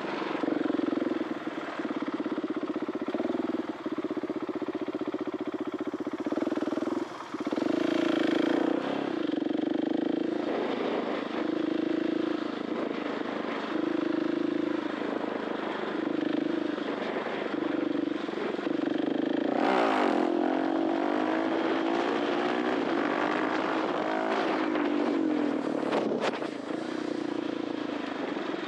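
KTM 690 SMC R's 693cc single-cylinder four-stroke engine running through an Arrow titanium exhaust under riding load. The note holds steady for several seconds, then is repeatedly cut and picked up again, then wavers up and down, with brief surges of rushing noise in the middle and near the end.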